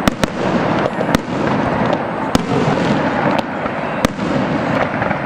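Aerial fireworks display going off: sharp bangs of bursting shells, about six, roughly one a second, over a constant dense din of crackling stars.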